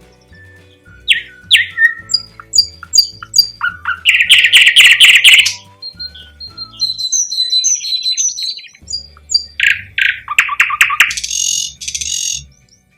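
Thrush nightingale singing a varied song of whistled notes, rapid clicking rattles and loud trills, with faint background music underneath.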